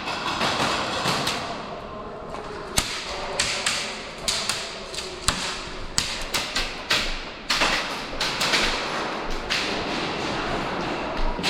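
Airsoft guns firing during a game: irregular sharp snaps and knocks, single and in quick clusters, over a steady background noise.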